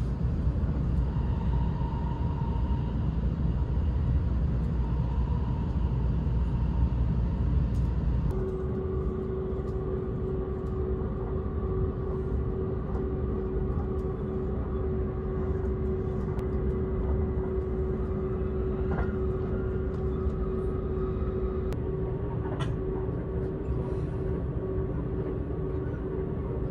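Running noise inside the cabin of a Seibu 001 series Laview limited express train on the move: a steady rumble that turns lighter about eight seconds in, when a steady hum comes in.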